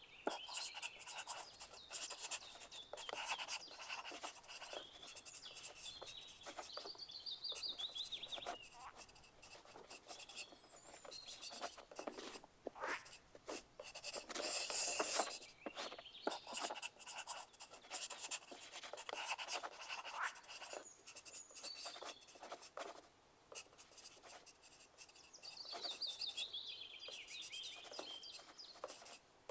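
Pencil lead scratching on paper in quick, irregular runs of writing strokes with short pauses, including a brief lull about three quarters of the way through.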